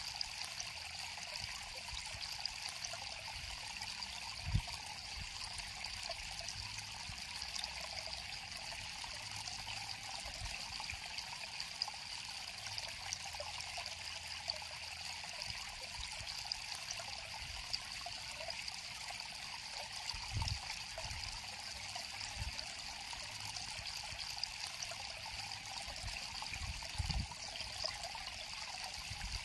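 River water flowing steadily in a constant trickling rush, with a few soft low thumps scattered through it.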